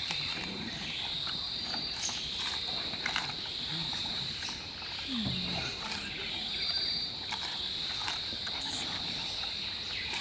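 Giant pandas crunching bamboo shoots: irregular sharp cracks and snaps every second or so, over a steady high-pitched hum.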